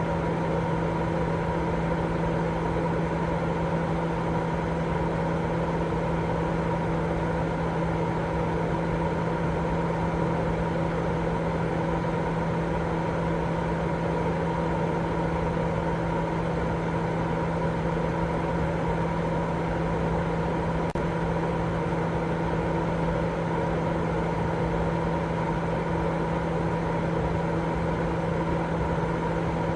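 Continuous white noise for baby sleep: an even, unchanging rush of noise with a steady low hum running through it.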